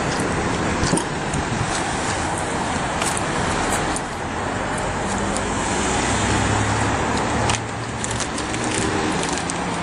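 Motor vehicle and road traffic noise, with a few light clicks. A low, steady engine hum grows stronger about five seconds in.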